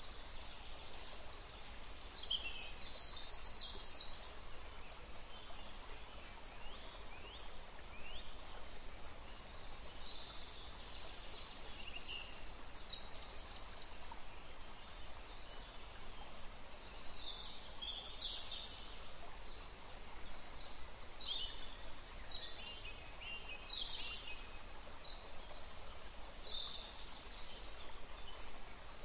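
Birds chirping in short bursts every few seconds, high and twittery with quick falling notes, over a faint steady background hum.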